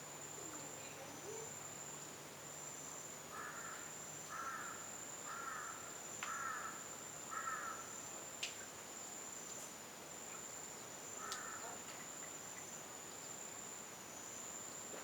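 Steady high-pitched drone of insects, with a bird calling harshly five times about a second apart, then once more a few seconds later.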